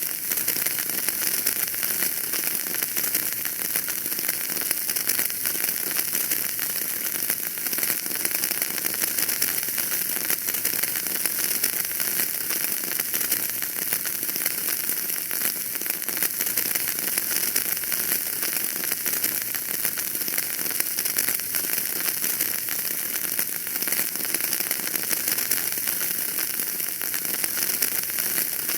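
Wood fire burning in a fireplace, crackling with many small pops over a steady hiss.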